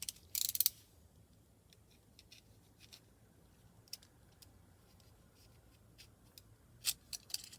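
Scissors snipping through a piece of glitter tape, a short loud cut about half a second in, followed by faint scattered clicks of handling and a few small clicks near the end.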